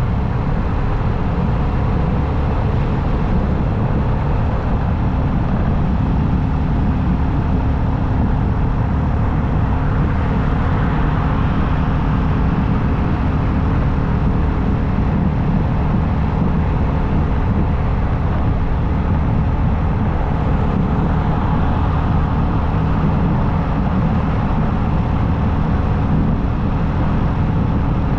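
Steady wind rush and road noise of a motorcycle cruising at highway speed, with the engine's hum underneath.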